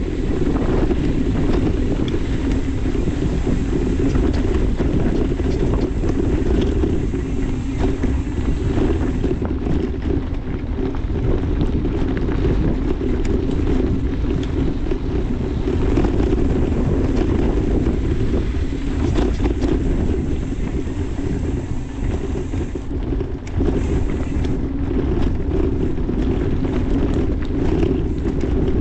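Steady wind rush and buffeting on the microphone of a camera riding along on a mountain bike, with scattered knocks and rattles from the bike over the trail.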